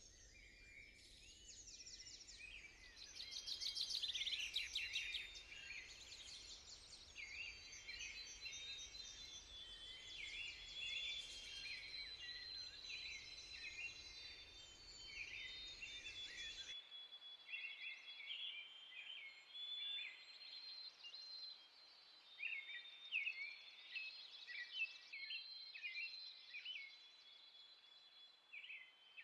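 Several small songbirds singing and chirping, with quick high chirps and trills overlapping throughout. A faint low background rumble cuts off abruptly a little past halfway.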